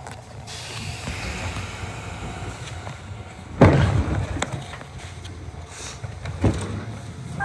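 Nishitetsu 600 series train running, a steady low rumble with two loud clunks about three seconds apart, the first the loudest.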